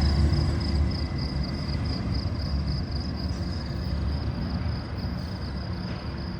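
Union Pacific double-stack freight train rumbling past, its low rumble slowly fading as it moves off, with a steady, faintly pulsing high-pitched note above it.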